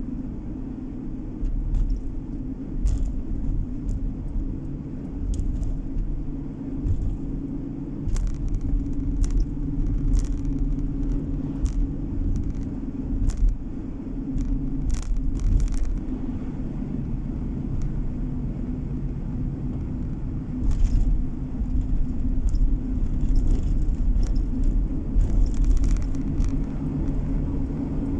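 Car driving along a road, heard from the cabin: a steady engine drone and low tyre-and-road rumble, with scattered short clicks and knocks.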